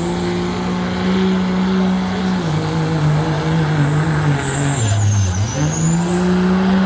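Turbocharged diesel pickup truck running hard under load in a work-stock truck pull, engine at high revs with a high turbo whistle over it. The revs step down slightly, sag briefly about five seconds in, with the whistle dropping too, then climb back.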